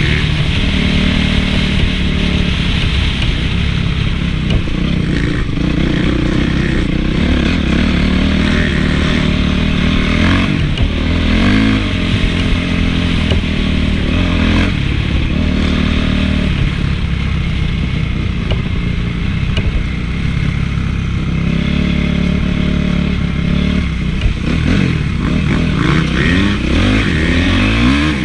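Honda CRF450 single-cylinder four-stroke motocross engine running hard, its pitch rising and falling again and again as the throttle is opened and closed. A few short knocks and rattles come through at moments.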